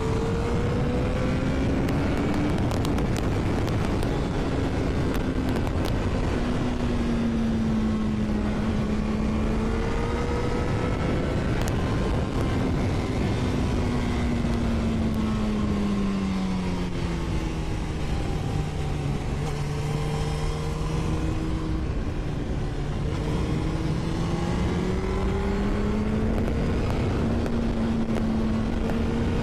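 Honda CBR1000RR's inline-four engine running while the bike is ridden, its pitch slowly rising and falling with throttle and speed, over steady wind noise.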